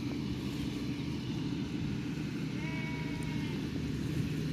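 A sheep bleats once, a single call a little under a second long about two and a half seconds in, over a steady low rumble.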